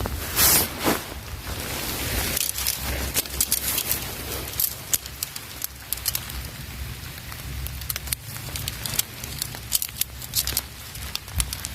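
Rain falling, with many sharp, irregular crackles and clicks close to the microphone over a low rumble.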